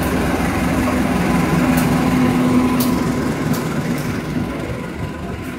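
Passenger train hauled by a diesel locomotive passing close by: the locomotive's engine hum swells to its loudest about two to three seconds in, then eases as the coaches roll past with a few sharp clacks of wheels over the rails.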